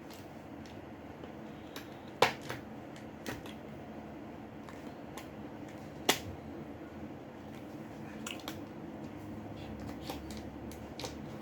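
A Samsung Galaxy J6 being pried apart with a tool: scattered small plastic clicks and two sharp snaps, about two seconds in and about six seconds in. The part is stuck tight.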